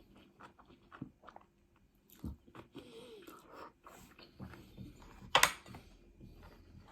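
Close-up eating sounds: chewing and biting, with small wet clicks and smacks, and one short, loud noisy burst about five and a half seconds in.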